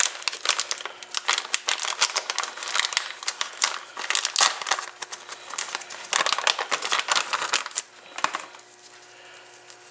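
Packaging of a brake caliper rebuild kit being opened and handled: dense, irregular crinkling and rustling that stops about eight seconds in.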